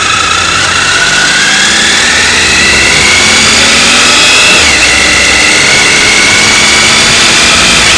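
Motorcycle engine under acceleration, its pitch rising steadily. About halfway through the pitch drops sharply as the rider shifts up a gear, then holds steady. Heavy wind rush sounds over the riding recording.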